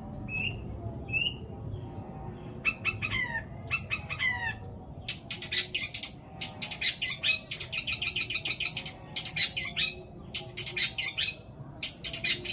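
Long-tailed shrike (cendet) singing a long, varied song of mimicked bird calls: a few short rising chirps, then two falling whistles about three and four seconds in, then fast harsh chattering phrases for the rest.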